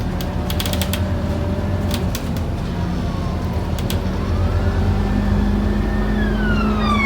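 Inside a Scania N230UD OmniCity double-decker bus on the move: its five-cylinder diesel engine and drivetrain running, with sharp rattles and clicks from the bodywork in the first few seconds. The engine note grows stronger about halfway through, and near the end a whine rises and then falls in pitch.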